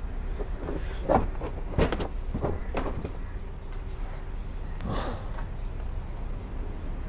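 Steady low rumble of background traffic, with several short knocks between about one and three seconds in and a brief hissing burst about five seconds in.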